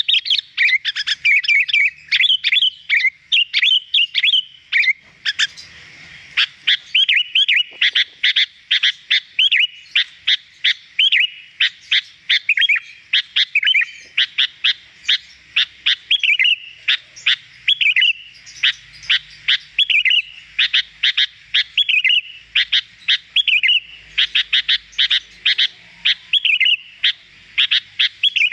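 Sooty-headed bulbul (kutilang) singing prolifically: a dense run of rapid, clear chirps and short whistled phrases, several notes a second, with only a brief lull about five seconds in.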